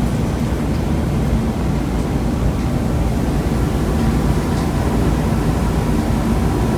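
Steady rumbling wind buffeting on the microphone over a low engine drone, as from a moving motorcycle.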